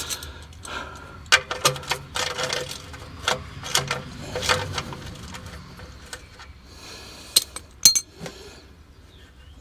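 Scattered metallic clinks and knocks of hand tools, a wrench and socket against the car's drain bolt, as a tight drain plug is worked loose. The sharpest knocks come about a second and a half in and again near eight seconds.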